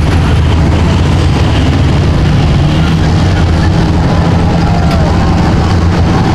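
A mega truck's engine running loud and steady, its pitch holding level throughout, with faint voices in the background.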